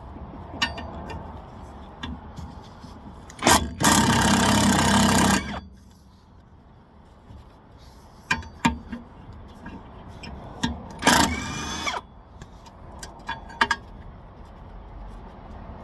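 Power impact wrench loosening the rear wheel bearing hub bolts: a loud burst of hammering about four seconds in lasting roughly two seconds, and a shorter burst near eleven seconds that rises in pitch as the bolt spins free. Scattered clicks and knocks of the socket and tools in between.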